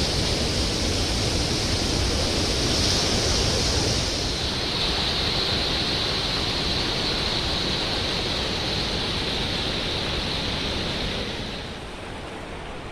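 Steady rushing of fast-flowing water, a dense even hiss and roar that drops somewhat in level shortly before the end.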